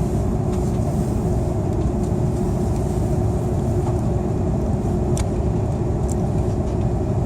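Steady cabin drone of an Airbus A330-300 airliner, engine and airflow noise heard from inside the cabin, with a faint steady hum under it.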